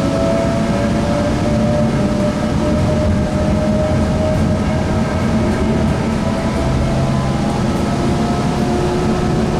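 Sound Transit Link light rail car running between stations, heard from inside the car: a steady rumble of wheels on track with a motor whine whose pitch climbs slowly, shifting to a lower tone near the end.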